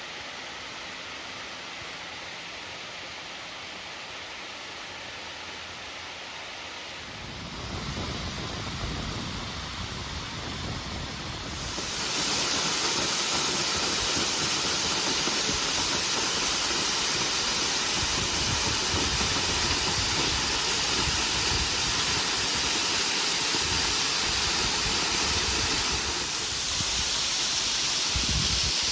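Gorman Falls waterfall rushing in a steady hiss. It grows louder about seven seconds in and again about twelve seconds in.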